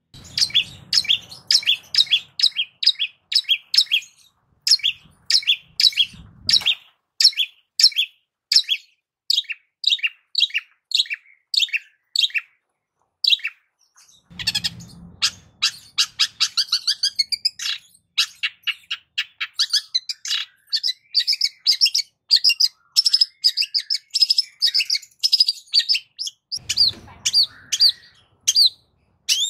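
Long-tailed shrike (cendet) singing a long run of short, sharp, high chattering notes repeated several times a second, in quick phrases with brief pauses.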